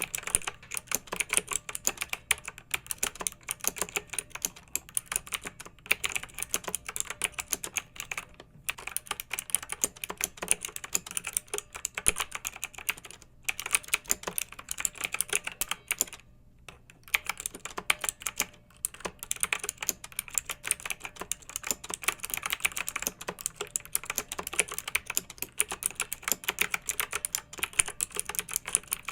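Fast, continuous typing on a clicky mechanical keyboard, the keystrokes coming in quick runs with a few brief pauses. A faint steady hum lies underneath.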